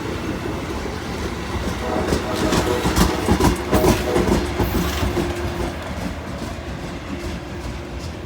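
Amtrak Downeaster passenger train rolling past, its wheels clacking over rail joints with a heavy rumble. The clacks are loudest about three to four seconds in, then the sound fades steadily as the train moves away.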